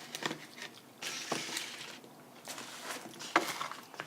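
Close-up eating and food-handling noises from a fried-chicken takeout meal: bursts of crunching and rustling with a few sharp clicks, the loudest about three and a half seconds in.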